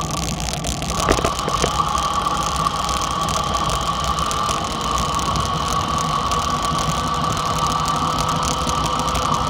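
Small dirt bike engine running at a steady pitch, with a few sharp clicks about a second in.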